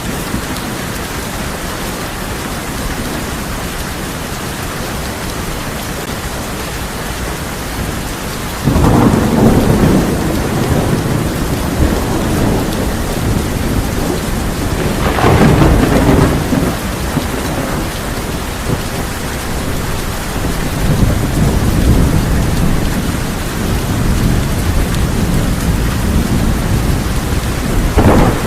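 Steady heavy rain on a tin roof, with rolling thunder: a sudden loud clap about a third of the way in, a second strong crack about halfway, and further rumbles later on.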